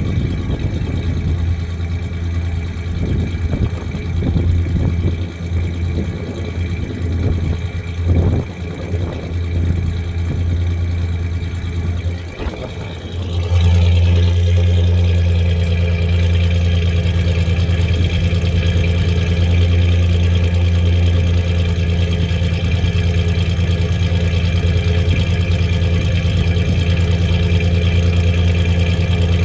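1993 Ford Ranger's 3.0 V6 engine idling with a misfiring cylinder. For the first half the idle is uneven, with scattered knocks; about halfway through it becomes suddenly louder and steady.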